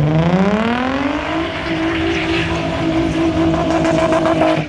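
Car engine revving up over about a second and a half, held at high revs for a few seconds, then let off near the end.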